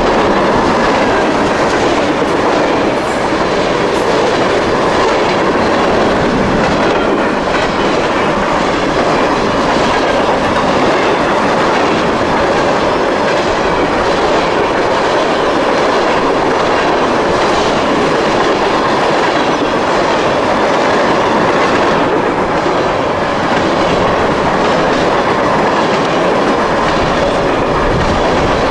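Freight train cars rolling past close by: a steady loud rumble and rattle of the cars, with steel wheels clacking over the rail joints.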